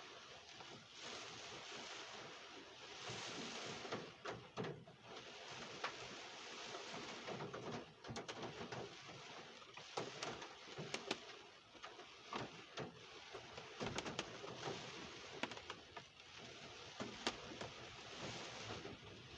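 Rain falling in Tropical Storm Hilary, a steady hiss that swells and fades with the gusts, with many sharp ticks and taps of drops striking nearby surfaces.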